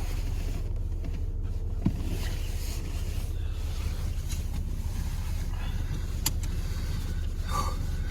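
Steady low rumble of a car running, with a few brief clicks.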